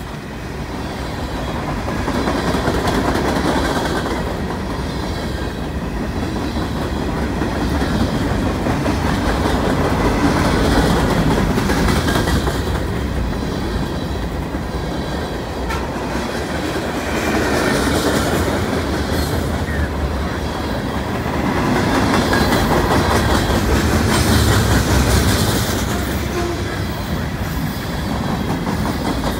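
Freight train cars (boxcars, covered hoppers and lumber flatcars) rolling past close by: a steady wheel rumble with wheels clicking over the rail joints, swelling and easing in loudness as the cars go by.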